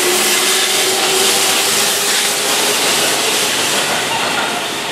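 Keihan electric train passing through the station at speed without stopping: a steady rushing noise of wheels on rail and moving air.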